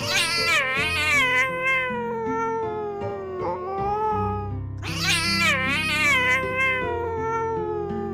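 Domestic cat yowling: two long, drawn-out calls with a wavering pitch, each starting high and sliding lower, the second beginning about five seconds in. Steady background music plays underneath.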